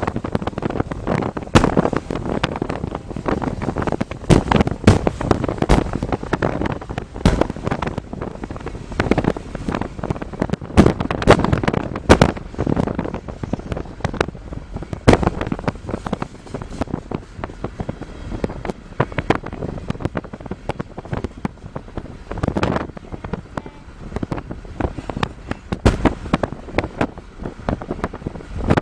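Heavy wind buffeting on the microphone of a camera held out of a moving car, a steady rushing noise broken by many irregular sharp thumps.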